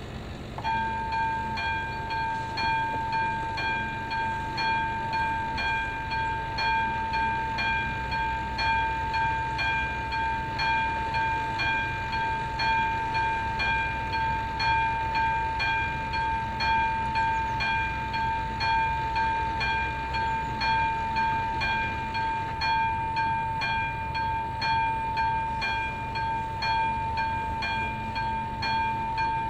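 Electronic warning sounder of a level crossing (AŽD ZV02) switching on about a second in and sounding a steady high tone that pulses regularly, about once a second. The crossing has activated for an approaching train.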